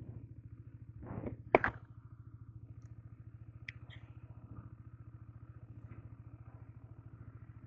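Honda CBR 150R's single-cylinder four-stroke engine idling with a steady, even pulse. A short clatter and a sharp thud come about one and a half seconds in.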